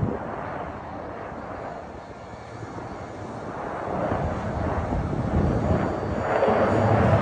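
Fighter jets flying at an air show display: a rushing jet engine noise that dips about two seconds in, then grows steadily louder from about four seconds in as the aircraft come closer.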